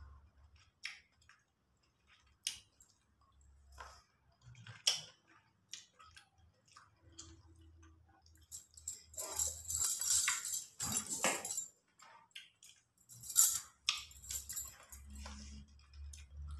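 Quiet eating of red grapes: soft chewing and mouth sounds with scattered small clicks, and in two stretches in the second half the wearer's bangles jingling and clinking as the hand moves.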